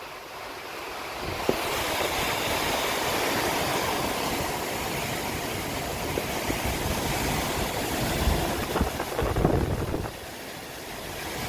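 Heavy rain and strong, gusty wind, with the wind buffeting the microphone in low rumbles. The rush swells about a second and a half in and drops away near the end.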